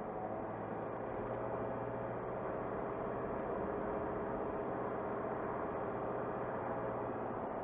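Car engine and tyres running steadily while driving, a continuous even hum with road noise.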